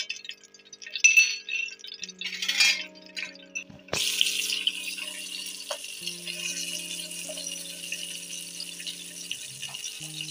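Light clinks and clicks of metal on a steel frying pan. About four seconds in, a yogurt-marinated chicken leg piece laid into hot oil starts a steady sizzle that keeps going. Soft background music plays underneath.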